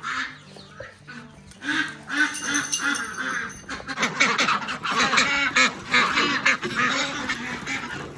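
A flock of domestic ducks calling noisily, many quacks overlapping. The calls are scattered at first and become a dense, continuous din about two seconds in.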